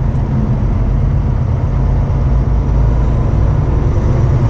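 Semi-truck's diesel engine droning steadily with road noise, heard inside the cab while driving.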